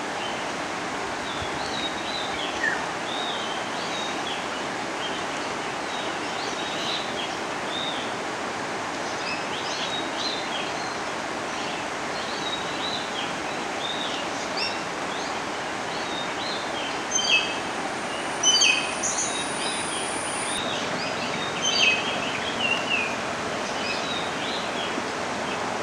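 Many birds chirping in short, high calls, busier and louder in the second half, over a steady outdoor hiss.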